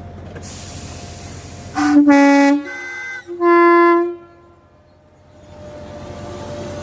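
Train horn sounding a two-tone call, a low note about two seconds in followed by a higher note about a second later, each lasting roughly half a second.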